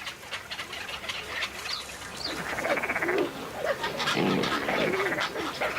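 Waterbird breeding colony: many birds calling over one another, with the calls getting louder and denser about halfway through.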